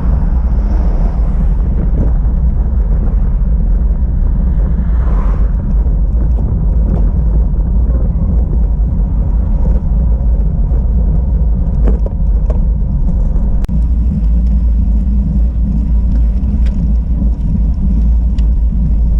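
Steady, loud low rumble of wind buffeting the microphone and tyre noise from a bicycle being ridden on the road, with a few faint ticks in the second half.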